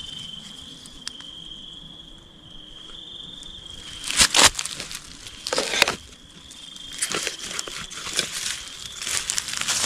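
Night insects trilling in one steady high tone, with loud rustling crunches about four and six seconds in and several shorter ones near the end.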